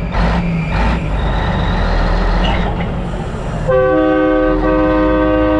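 A heavy engine running with a low rumble, then a loud multi-note air horn, the chord-like train-horn kind, sounds about two thirds of the way in and holds steady past the end.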